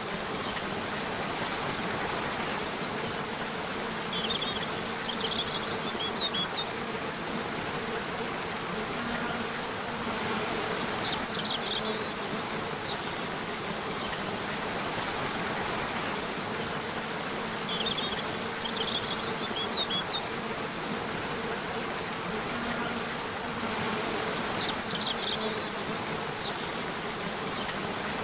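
Nature soundscape: a steady hiss of running water under the low drone of a buzzing insect. Clusters of short high chirps come back every few seconds.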